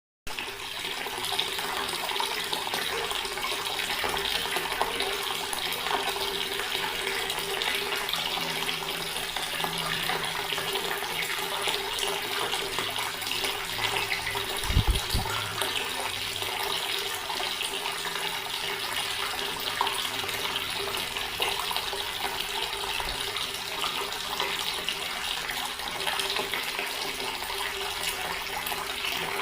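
Water running steadily from a tap into a stone basin, an even splashing flow. About halfway through there is one brief low thump.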